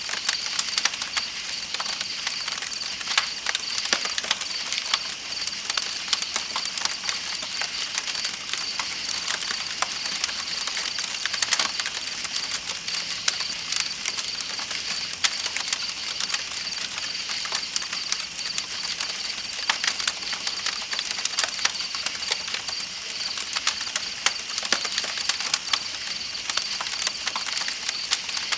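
Campfire crackling with frequent sharp pops and snaps, over the steady rush of a flowing river and a continuous high trill of night insects.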